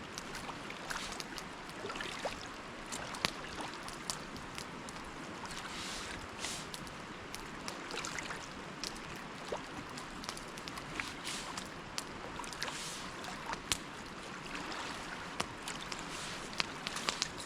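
Sea water washing and trickling around a shoreline rock as the tide comes in: a steady wash with scattered small sharp ticks and taps throughout.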